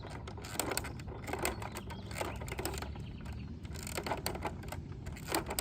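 Irregular plastic clicking and rattling from a toy crane's boom mechanism being worked to raise the boom, over a low outdoor rumble.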